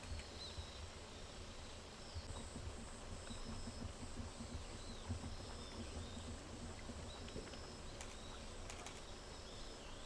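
Outdoor ambience: small birds chirp faintly and intermittently over a steady low rumble, with a few faint clicks near the end.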